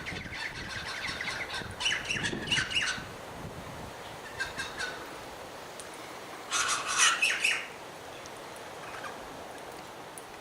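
Birds calling in three bursts of rapid chirps: the first near the start, a short one about four and a half seconds in, and the loudest about six and a half seconds in.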